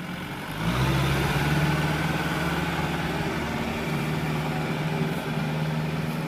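Kubota M6040SU tractor's diesel engine running. It grows louder about a second in and then holds steady while the tractor works to pull itself and a loaded trailer out of deep mud.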